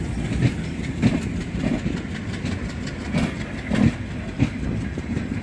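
Coaches of the Rameswaram–Bhubaneswar Express rolling past on the track: a steady rumble with repeated clickety-clack as the wheels cross the rail joints, roughly one or two knocks a second.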